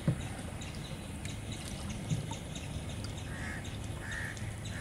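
Birds calling: a short, harsh call repeated about four times from around three seconds in, over a steady low rumble. A single thump sounds right at the start.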